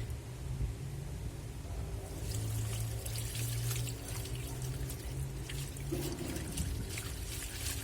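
Water pouring and sloshing in the tub of a Black & Decker washing machine during a wash, over a steady low hum.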